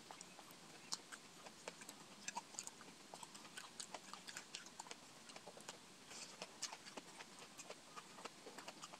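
Faint, irregular clicks of close-up chewing and mouth sounds while eating skewered street food, with light taps of a bamboo skewer in a glass bowl of sauce.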